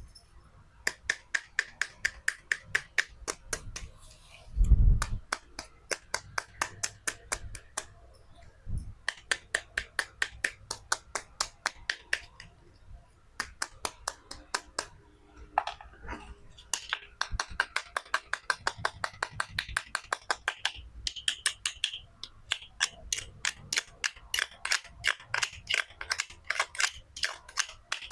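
Toy knife cutting through toy fruit and vegetables: quick rows of sharp clicks, about four a second, in runs with short pauses, and a heavier thump about five seconds in.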